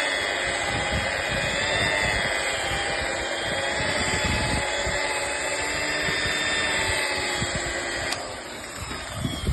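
Aldi Workzone electric polisher with a green cutting pad running on car paintwork, giving the flatted paint its first cut with cutting compound. The motor's whine wavers slightly in pitch as it is worked across the panel, then cuts off about eight seconds in.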